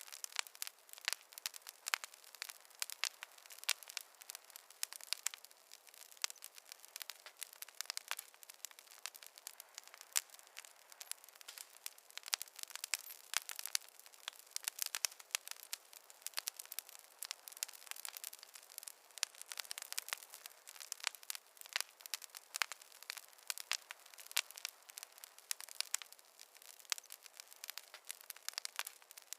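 Wood fire crackling in a fireplace: a dense, irregular run of sharp pops and snaps over a faint hiss, with no low roar.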